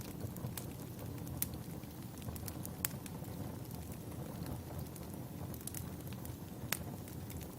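Wood fire burning with a steady low rumble and scattered sharp crackles and pops of the burning logs. The louder pops come about three seconds in and near the end.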